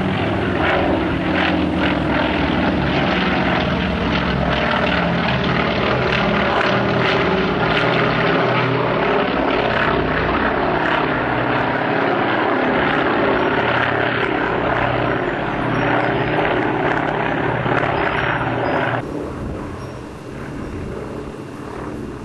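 Firefighting aircraft flying low nearby: a loud, steady engine and propeller drone that drops off sharply about nineteen seconds in.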